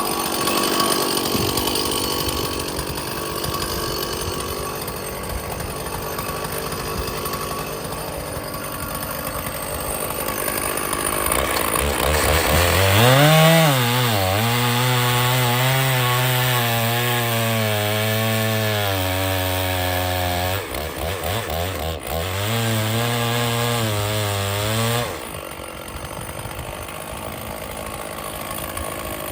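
Stihl 036 two-stroke chainsaw running. About twelve seconds in it revs up, then holds a steady pitch under load in the cut. It breaks off briefly, resumes, and drops back near the end.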